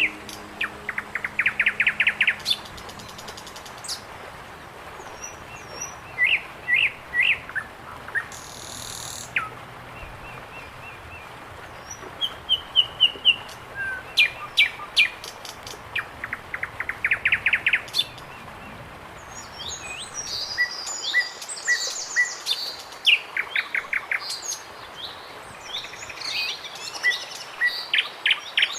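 Several birds singing and calling outdoors, with quick runs of rapidly repeated notes and scattered chirps. The high chirping grows busier in the second half.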